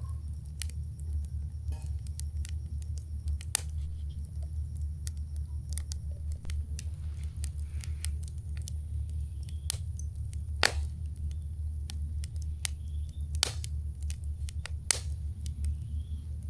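Campfire of burning wood crackling, with scattered sharp pops at irregular intervals over a steady low rumble; a few of the pops stand out louder.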